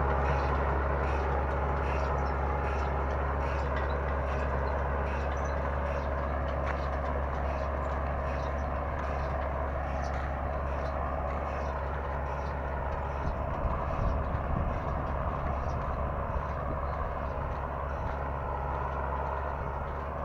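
Tractor engine running steadily with a deep, even drone, a few irregular knocks near the middle.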